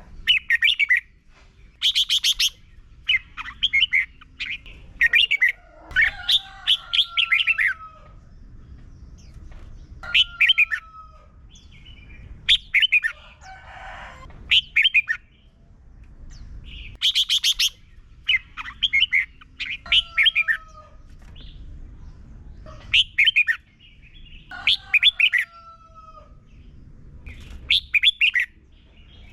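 Red-whiskered bulbul singing: short bursts of bright, warbling phrases repeated every second or two, some ending in a short downward slur.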